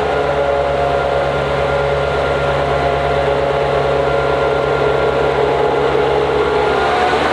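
NMBS/SNCB class 55 diesel locomotive 5519 running, its engine giving a steady drone topped by a whine that sags slightly at first and climbs near the end.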